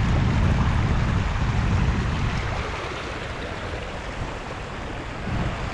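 Wind buffeting the microphone: a heavy low rumble over a steady rush, easing about two seconds in.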